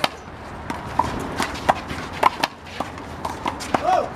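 One-wall handball rally: the big blue rubber ball slapped by hand and bouncing off the wall and the court, a quick series of sharp, irregularly spaced smacks.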